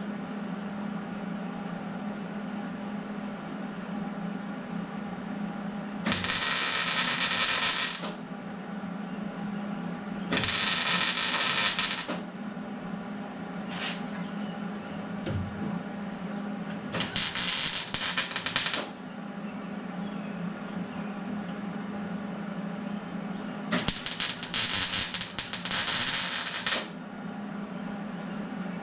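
Welding steel square tubing to a car floor: four short welds, each a loud crackling hiss of about two to three seconds that starts and stops abruptly, over a steady low hum.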